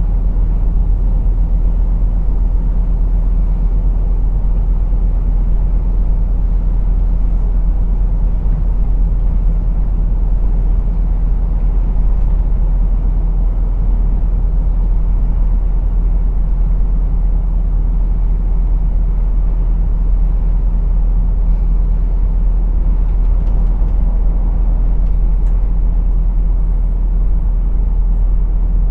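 Steady low drone of a lorry's diesel engine and road noise, heard from inside the cab, with no change in pitch or level.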